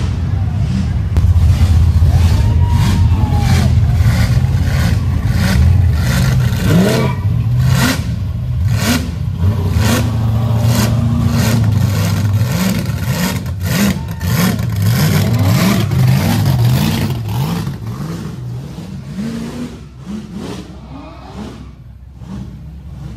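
Car engine revving hard, with many sharp cracks and pops through the exhaust. It dies away over the last few seconds.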